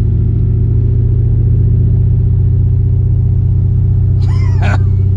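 New Edge Ford Mustang GT's 4.6-litre two-valve V8 running at steady revs, a constant low drone. A short higher-pitched sound cuts in briefly about four seconds in.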